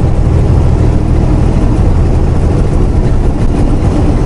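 Semi-truck's diesel engine and road noise heard inside the cab while driving, a steady low drone.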